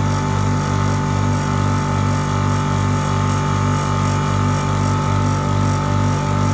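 A 7.5 HP double-chamber rice grinder running under its electric motor: a steady, loud hum with a high whine and a low throb about three times a second.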